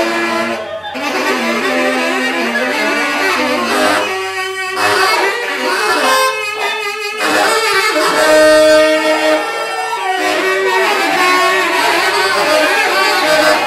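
Free-improvised music: tenor saxophone lines with cello, pitched notes shifting and overlapping, and a held saxophone note near the middle.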